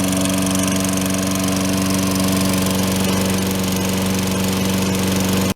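Tecumseh single-cylinder engine of a Toro Recycler 20072 lawn mower running steadily at constant speed, even and smooth.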